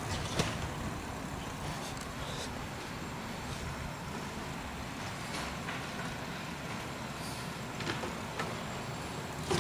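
Garbage truck engine running steadily, with a few short sharp knocks and clanks: a strong one about half a second in and several more near the end.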